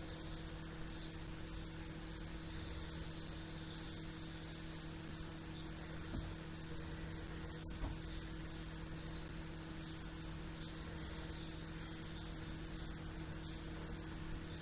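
A steady low hum with an even background hiss, over which faint, scattered high chirps of small birds come and go.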